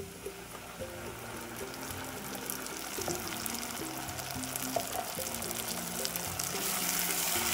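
Ground onion-coconut masala paste being tipped from a mixer jar into hot oil and onions, frying with a sizzle that grows louder near the end as it is stirred in. A tune plays in the background.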